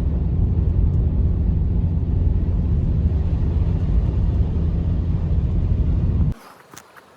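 Strong blizzard wind, a deep steady rumble that cuts off suddenly about six seconds in, leaving a quiet background with a few faint clicks.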